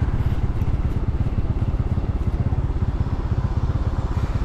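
Motor scooter running while being ridden, with wind rumbling on the microphone.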